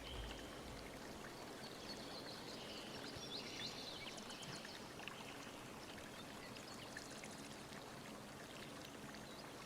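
Steady rush of flowing water, with small birds chirping and twittering over it.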